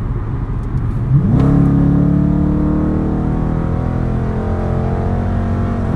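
A car engine running, revving up sharply about a second in and then holding steady at high revs.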